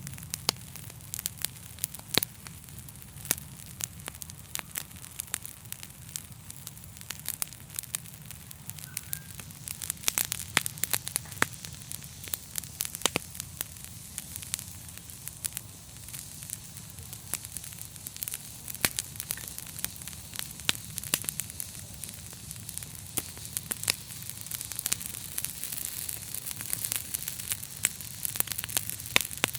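Wood fire burning in a fireplace: frequent, irregular sharp crackles and pops over a steady hiss and low rumble of the flames.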